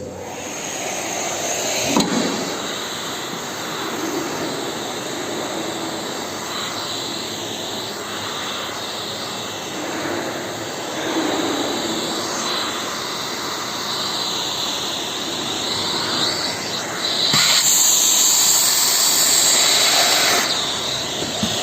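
Car wash self-service vacuum's turbine running, a steady rush of suction air, turning louder and hissier for about three seconds near the end.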